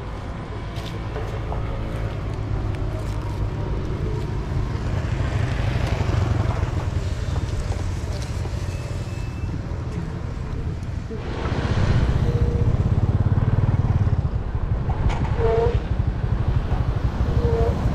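A small engine runs steadily with a low, rapid rumble under a rushing hiss, and it grows louder about two-thirds of the way through.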